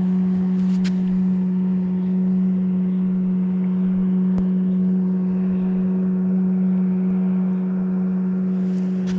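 Steady low mechanical hum held at one constant pitch, with a single short click about four seconds in.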